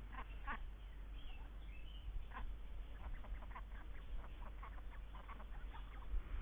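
Indian Runner ducks quacking: a few single short quacks, then a quick run of them at about four a second from about three seconds in.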